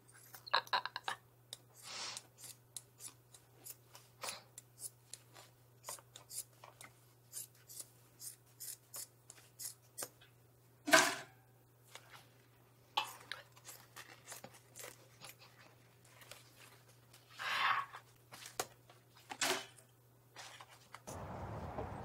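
Knife cutting up cloth face masks: a run of short, sharp cutting strokes, about one or two a second, with louder rustling bursts about halfway and twice near the end, over a faint low hum. Just before the end a steady outdoor rumble takes over.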